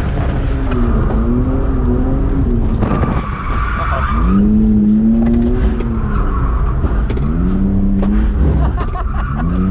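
BMW E46 drift car being drifted: its engine revs up and drops back about four times, with tyres squealing and sliding through the corners.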